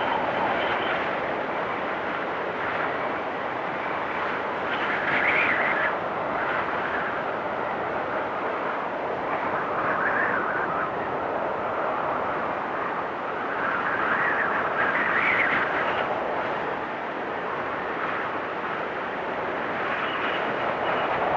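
Blizzard wind rushing through trees, a steady roar that swells in gusts every few seconds.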